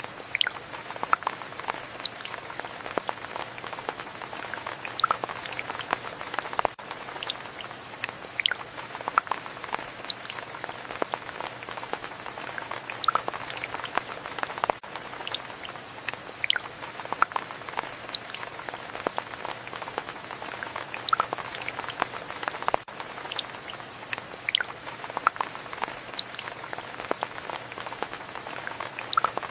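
Steady rain, with many separate drops pattering and dripping.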